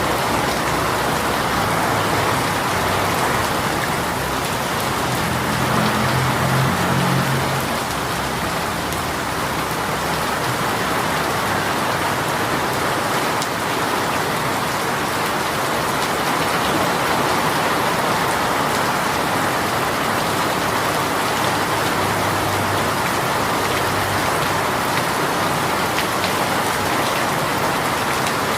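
Heavy rain shower falling steadily, a dense even patter of drops, with a brief low rumble about six seconds in.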